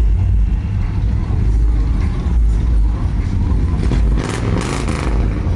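Low, steady rumble of car engines in slow, packed traffic, with a brief rushing noise about four seconds in.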